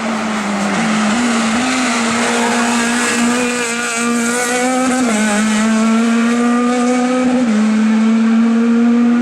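Hill-climb race car engine held at high revs as the car climbs the course, its pitch staying nearly level with small steps and a short dip about five seconds in, growing slowly louder as it approaches.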